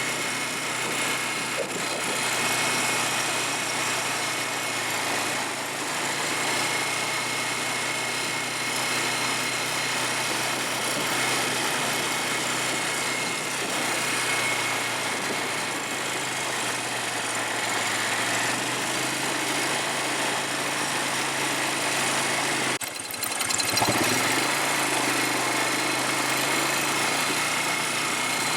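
ATV engine running steadily, with a short break in the sound about four-fifths of the way through.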